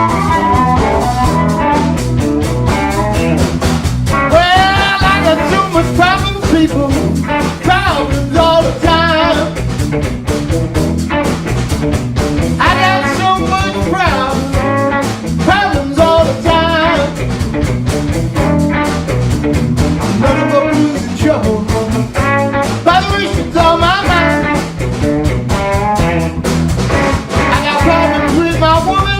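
Electric blues band playing live, with a wavering lead line that bends up and down in phrases over the steady accompaniment.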